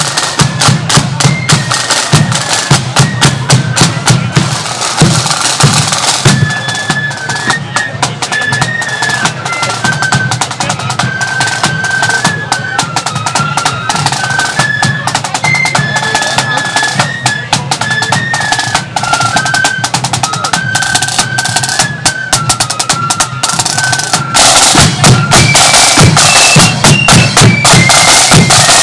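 Marching flute band playing: rapid snare drum rolls and bass drum beats under a high, stepping flute melody. About 24 seconds in the band gets louder, with heavier drumming and the tune rising higher.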